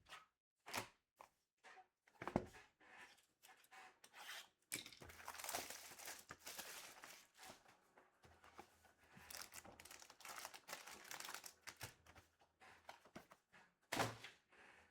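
Trading card packs being torn open, their wrappers crinkling, and cards rustling and sliding as they are handled. A string of short scrapes and rustles, with a longer stretch of rustling a few seconds in and a sharper one near the end.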